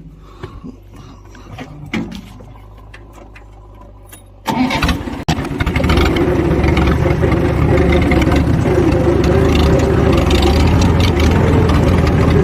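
Mahindra 575 DI tractor's diesel engine. It is faint at first, then comes in loud about four and a half seconds in, with a brief cut-out, and runs steadily after that.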